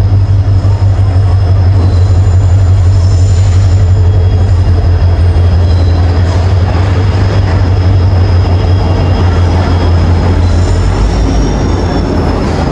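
Train moving past at close range: a loud, steady low rumble of rolling stock with high-pitched wheel squeal.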